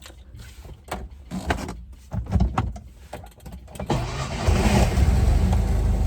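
Handling knocks and clicks for about four seconds, then the Fiat 500's engine comes in loud, running at an uneven idle.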